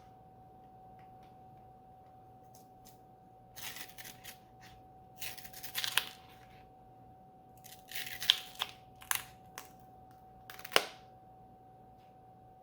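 Pages of a hardcover book being turned and handled: three bursts of paper rustling with sharp clicks and flaps, over a faint steady tone.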